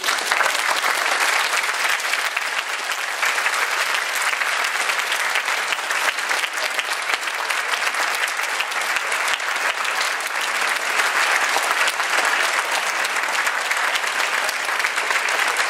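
Audience applauding steadily, breaking out all at once right after the choir's final note.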